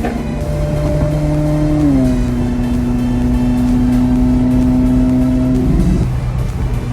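Car engine running under way: its pitch glides down about two seconds in, holds steady for a few seconds, then changes near the end.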